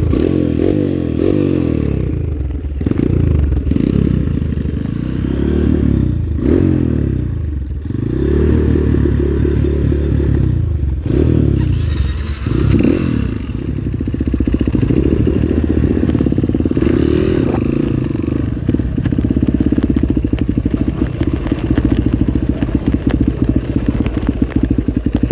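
Trail motorcycle engine revving up and down repeatedly as it is ridden, then running at a steadier speed for the second half, with occasional knocks and clatter.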